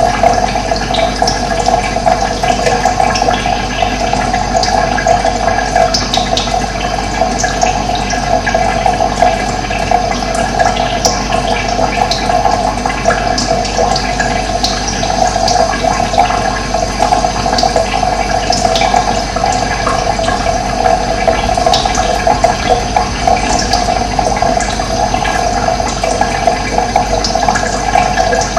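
Steady rush of running water, with short, faint bird chirps scattered over it.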